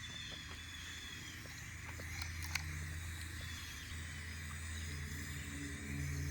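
Outdoor ambience: faint high calls, likely birds or insects, over a steady low hum that grows louder near the end, with a single sharp click about two and a half seconds in.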